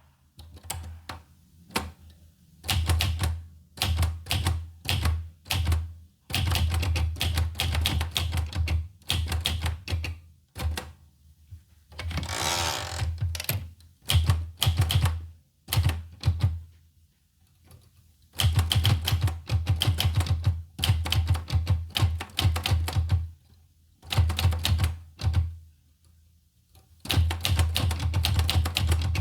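Olivetti Lettera 25 manual portable typewriter being typed on: runs of quick key strikes broken by short pauses. About twelve seconds in there is one longer sliding, rasping sound.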